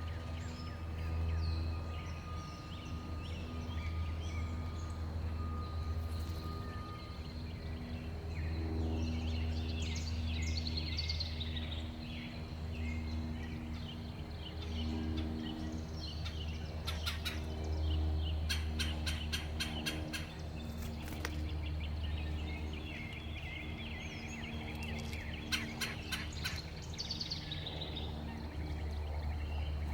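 Backyard birds at a feeder chirping and calling over a steady low hum of background noise. In the second half there are two runs of rapid, evenly spaced sharp taps or clicks.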